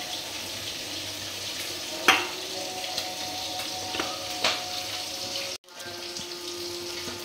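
Food sizzling in hot oil on the stove, a steady hiss, with a few sharp clinks of cookware being handled.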